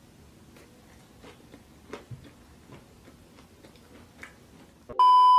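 Faint, scattered mouth clicks and smacks of close-miked eating, then near the end a loud, steady 1 kHz censor bleep cuts in abruptly over muted audio.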